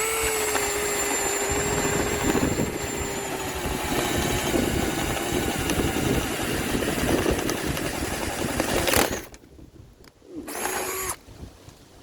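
Bauer 20-volt cordless drill on its high-speed setting boring through wood with a spade bit: a steady motor whine, sagging slightly in pitch under load, mixed with the rough noise of the bit cutting. It stops about nine seconds in, then gives a brief second spin a second later.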